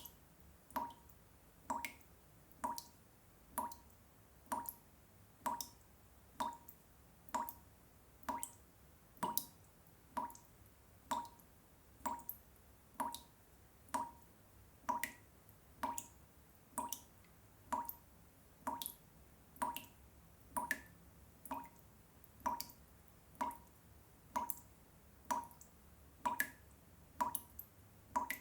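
Water drops falling one at a time at a steady, even pace of about one drop a second, each a short plop.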